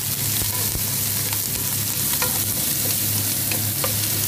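Chopped onion and grated garlic frying in hot oil in a nonstick pan: a steady sizzle with small spattering pops, stirred with a wooden spatula. The spattering comes from the wet, freshly grated garlic.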